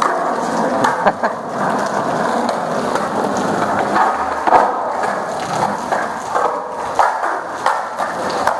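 Skateboard wheels rolling on pavement, with a few sharp clacks of the board striking the ground.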